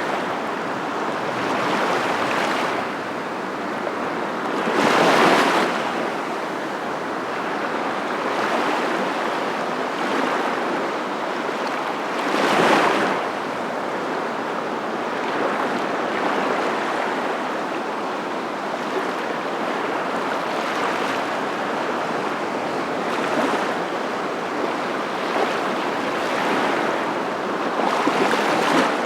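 Continuous rushing water noise like surf, with louder swells about five and thirteen seconds in.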